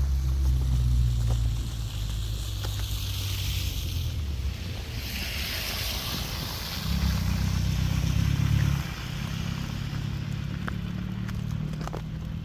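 Low wind rumble buffeting the microphone, loudest in the first two seconds and again about seven to nine seconds in, with a hiss that swells and fades in between.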